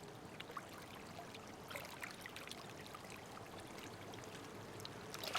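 Water trickling and lapping steadily, with many small splashes and drips scattered through it.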